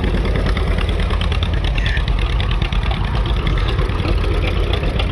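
A vehicle engine running steadily and loudly.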